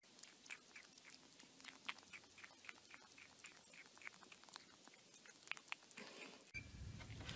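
Kitten chewing at the rim of an orange plastic bowl: faint, quick clicking nibbles, about four to five a second, that stop about five seconds in. A low hum comes in near the end.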